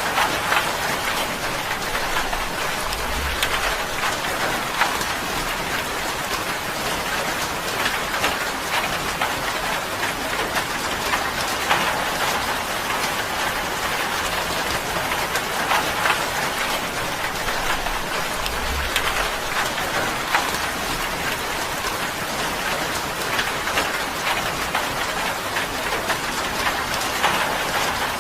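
Steady, dense rain drumming on a tin roof, with a constant patter of individual drops striking the metal.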